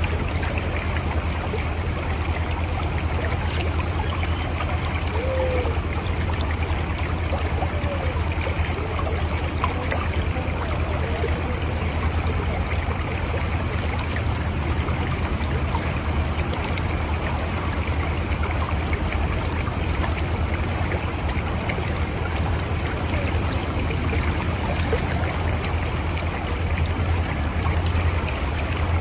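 Mountain river flowing over rocks: a steady rush of water with a deep low rumble underneath.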